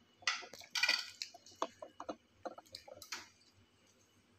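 A person chewing a mouthful of rice and curry: short wet mouth clicks, with the scrape and clink of a spoon on a plate. The loudest scrape comes about a second in.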